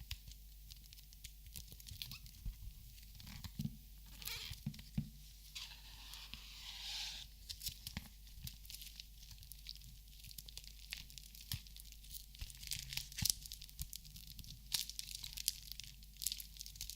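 Close-miked crinkling and rustling, with many sharp light taps and clicks scattered throughout; the longest crinkle comes about six to seven seconds in.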